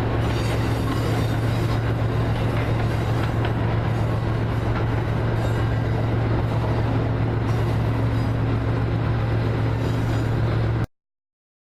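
A train running past close by: a steady, loud rumble with a low hum. It cuts off suddenly near the end.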